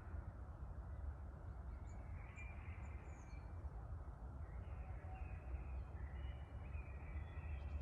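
Wind rumbling on the microphone over a steady outdoor city hum, with scattered short bird calls.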